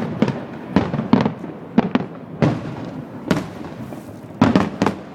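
Fireworks bursting in rapid, irregular succession, with sharp bangs several times a second, each trailing off in echo.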